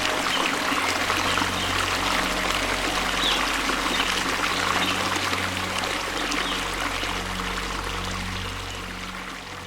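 Steady rush of water falling from a waterfall, a dense even hiss. It fades down gradually over the last few seconds.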